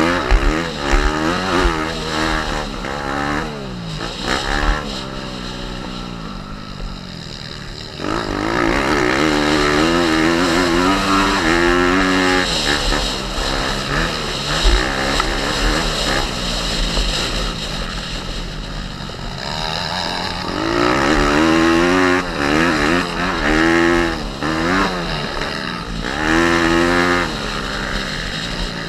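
Pit bike's small single-cylinder four-stroke engine ridden hard, its pitch rising and falling again and again with throttle and gear changes, with wind buffeting the microphone. It gets louder about eight seconds in.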